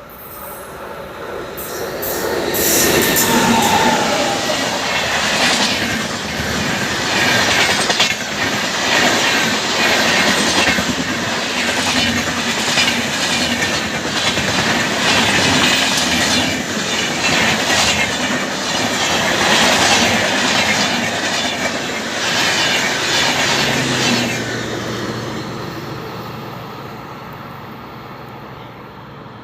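Express train hauled by a WAG-9 electric locomotive passing close by at speed. It builds up over the first couple of seconds, then gives a long stretch of loud, rapid clickety-clack from the wheels over the rail joints, and fades away over the last few seconds.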